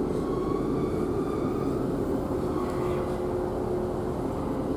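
Steady rumble of a Class 150 diesel multiple unit running, heard from inside the carriage, with a faint steady whine over it.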